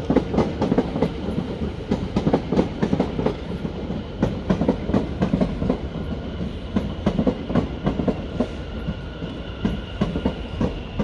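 Train passing close by, its wheels clicking over rail joints in a fast, uneven run of clacks over a steady rumble, with a faint steady whine above.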